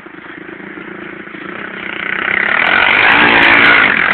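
Pit bike engine revving, growing steadily louder over the first three seconds and staying at its loudest near the end.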